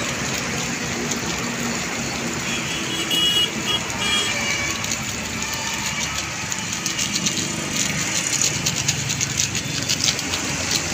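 Chicken pieces sizzling in hot oil in a steel kadai, a steady hiss, turning into sharper crackling and spitting near the end.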